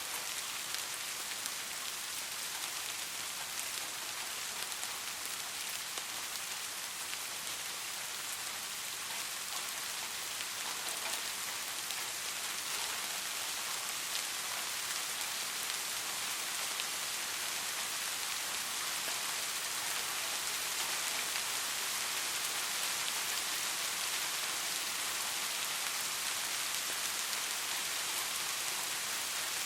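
Steady soft rain: an even hiss of many small drops falling on a surface, with no thunder.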